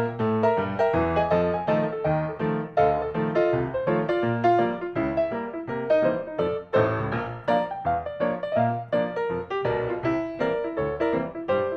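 Background music played on piano: a steady run of quick notes with chords beneath.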